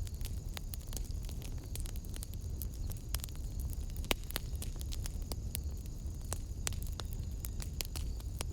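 Wood fire in a fireplace crackling: irregular sharp pops and snaps over a low, steady rumble of the flames, the loudest pop about four seconds in.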